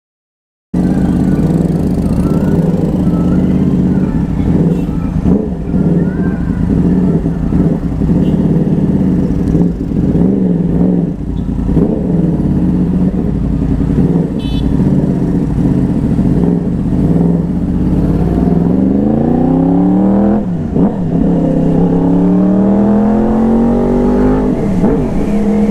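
Yamaha R1's 1000 cc crossplane inline-four running, loud and steady for most of the time, then rising in pitch twice near the end with a sudden dip between the two rises.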